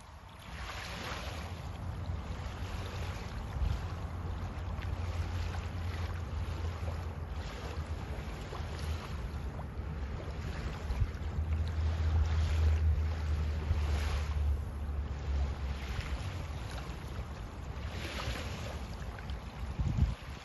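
Wind buffeting the microphone: a low rumble with gusts of hiss that rise and fall every few seconds.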